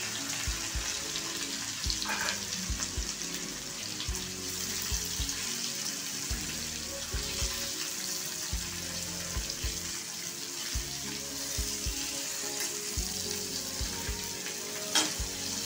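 Spice-coated cut okra sizzling steadily in hot oil in a metal kadhai as it is stirred with a metal spatula, with one sharp clink near the end.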